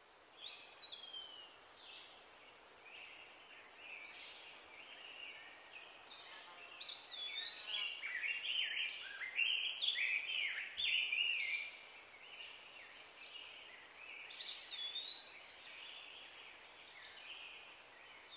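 Songbirds singing, with many short whistled phrases sliding up and down in pitch. The singing is busiest in the middle and thins out again toward the end.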